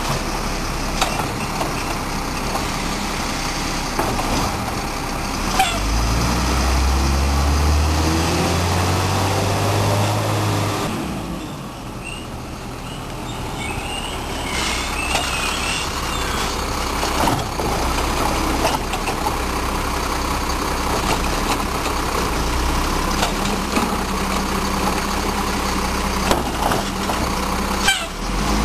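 Garbage truck's diesel engine revving up with a rising pitch for several seconds, then dropping back about eleven seconds in and running steadily. Scattered clanks and a brief high squeal are heard over it.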